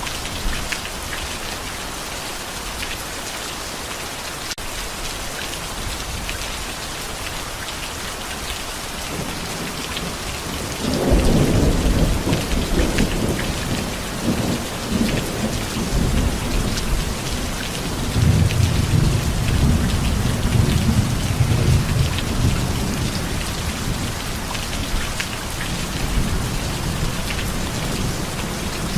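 Heavy steady rain, with a peal of thunder that breaks in suddenly about a third of the way through and rumbles on in waves, swelling again near the middle before slowly dying away.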